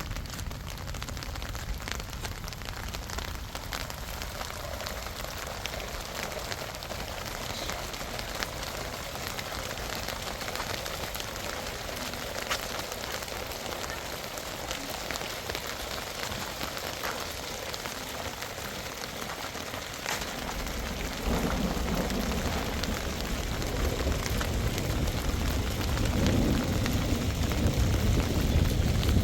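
Steady rain falling, with many separate drop hits. About two-thirds in a low rumble comes in and the whole sound grows louder.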